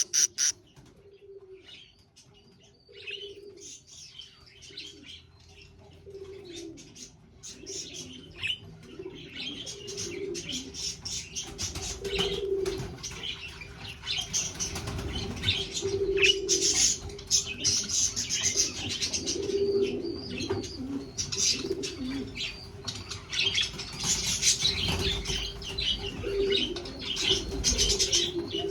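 Pet budgerigars chirping and chattering, sparse at first and busier from about eight seconds in, with a steady low hum underneath.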